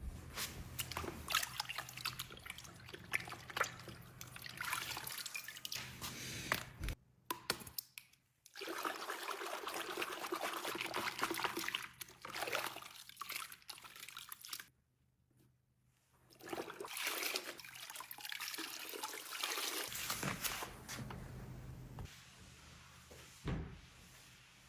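Things being poured into containers during a kitchen restock, in several short takes with sudden brief silences between them.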